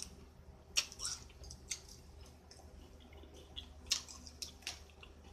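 A person chewing Flaming Hot Funyuns onion-ring snacks, with a few short, scattered mouth clicks and smacks.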